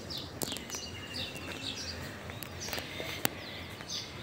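Small birds chirping with many short, high calls and one longer whistled note, over a low background hum of open-air noise. A single sharp click about three seconds in is the loudest sound.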